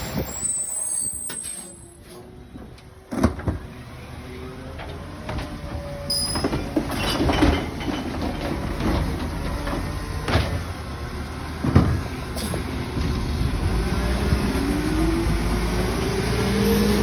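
Labrie Helping Hand side-loading garbage truck at work: the engine and hydraulics run steadily, with a sharp clank about three seconds in and several more clanks through the middle. The engine note rises near the end.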